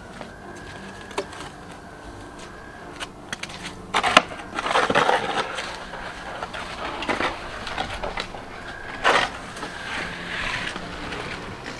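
Snow crunching in irregular bursts, with a faint steady high-pitched tone coming and going.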